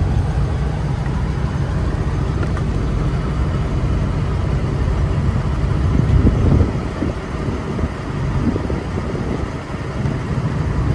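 Steady low engine rumble of vehicles running, with no clear start-up or change.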